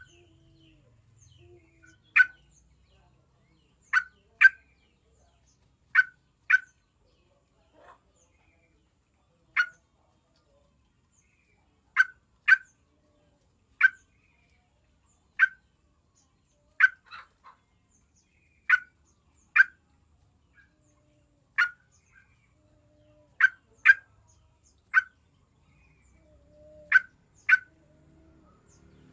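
Yellow-vented bulbul giving short, sharp call notes, singly or in quick pairs, every second or two. This is a lure recording played to prompt a kept bulbul to start singing.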